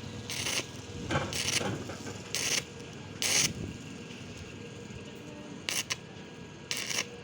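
About seven short rasping scrapes at uneven intervals, with a faint steady hum underneath.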